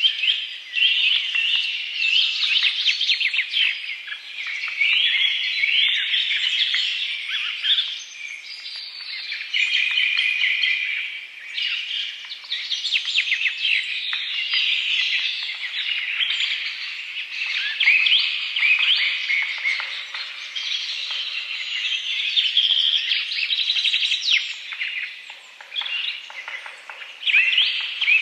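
Many small birds chirping and trilling together in a dense, continuous chorus of short, high calls that swell and fade.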